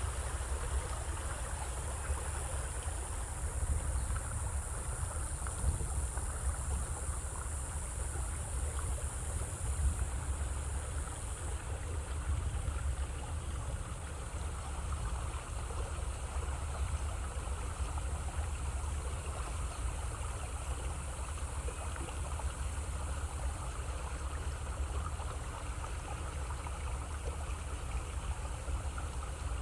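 Boat moving on a jungle river: a steady rush of water over a heavy low rumble, with a high thin hiss that drops away about 11 seconds in.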